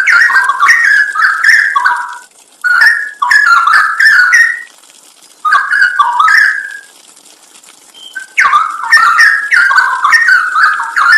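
Straw-headed bulbul singing loud, rich whistled song phrases in bursts, with breaks of about a second or more between some of them.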